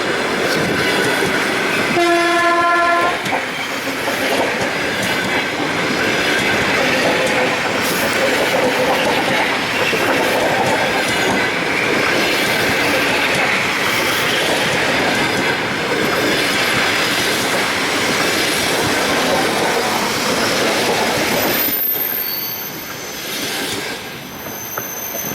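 ED4M electric multiple unit passing close by: a horn blast about a second long about two seconds in, then loud steady wheel clatter and rumble for some twenty seconds. Near the end the noise drops away and thin high wheel squeals remain.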